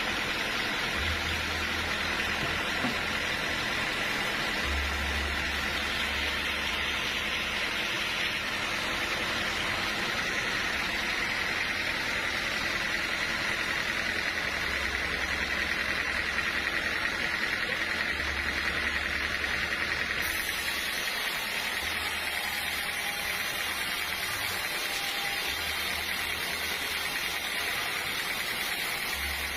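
Sawmill machinery running steadily, a constant noise with a steady high tone through it.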